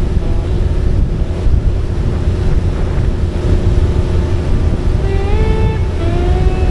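Steady wind buffeting on the microphone over the low rumble of a motorcycle at road speed. About five seconds in, gliding pitched tones of a song begin over it.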